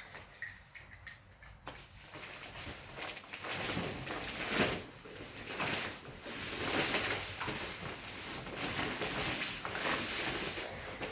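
Sand-and-cement shower pan mix being handled in a mortar tub: an uneven noise that starts about two seconds in and rises and falls in swells.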